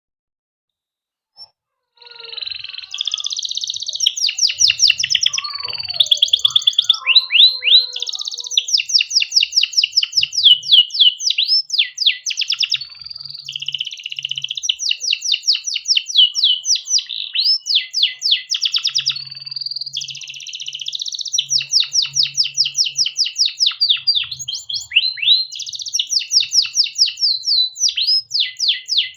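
Domestic canary singing a long continuous song of fast rolling trills and quick sweeping chirps, starting about two seconds in after a brief silence.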